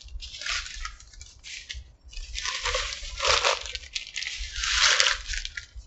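Someone chewing a mouthful of soft pretzel close to the microphone: irregular hissy bursts of chewing and nose-breathing, four or five of them with short gaps between.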